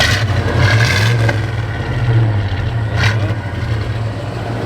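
Suburban SUV's engine being revved several times through its stock exhaust, the original muffler still fitted, with a steady low running note that swells with each rev.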